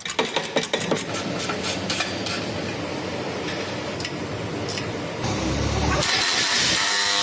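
Workshop tool noise: a quick run of clicks and knocks, then a louder steady rushing whir near the end.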